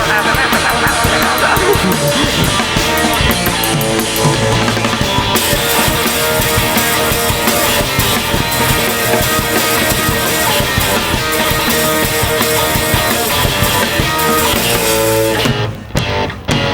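Live rock band playing an instrumental passage: drum kit, electric guitar and bass, with no singing. The band stops sharply twice about a second before the end, then comes back in.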